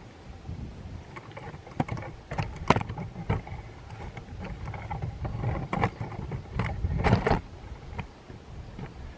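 Wind rumbling on the microphone, with scattered clicks and rustles from close handling or movement, a denser cluster of them about seven seconds in.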